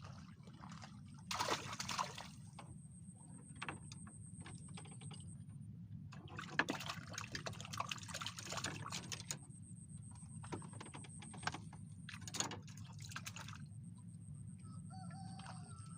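Water splashing and sloshing in short bursts, three times, with scattered small clicks and knocks between them, over a thin steady high-pitched whine that comes and goes.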